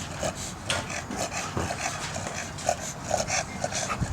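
Dogs making many short, quick calls that overlap irregularly.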